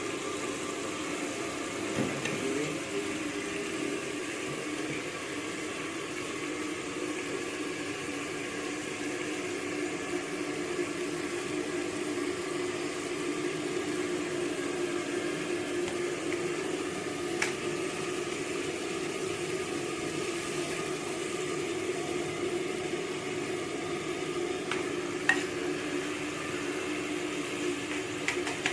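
Steady sizzling hiss of chicken frying in hot oil, with a low hum under it and a few brief sharp clicks.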